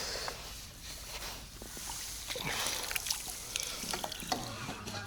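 Water splashing and sloshing in short irregular bursts, with a few small knocks, as a hooked tench thrashes at the surface close in.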